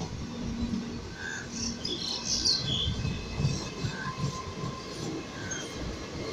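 Passenger express train's coaches rolling past at the trackside: a steady rumble and clatter of wheels on the rails, with some high-pitched squeaks about two seconds in.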